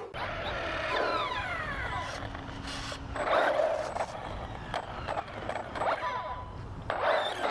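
Electric RC cars driving, their motors whining in pitches that glide up and down as they speed up and slow, with louder bursts of tyre and drivetrain noise a little after three seconds and near the end.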